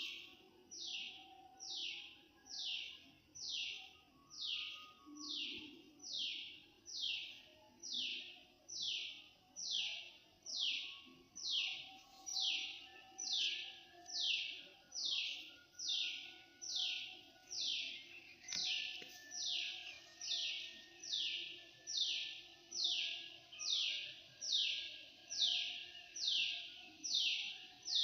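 An animal call repeated steadily about once a second: each is a short, high, buzzy note sliding downward in pitch, with fainter calls underneath.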